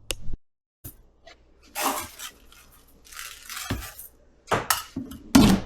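Kitchen clatter: dishes and utensils clinking and knocking in several short bursts.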